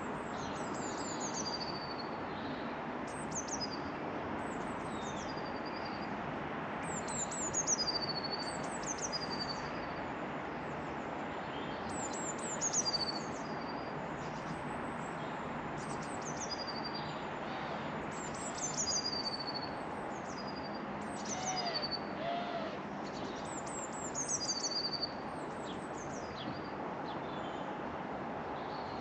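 A small songbird singing short, high phrases about every two seconds, each sliding quickly down and ending on a lower note, over a steady low background hiss.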